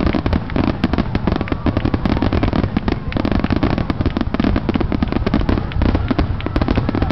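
Fireworks going off in a dense, continuous barrage of rapid cracks and pops over a low rumble.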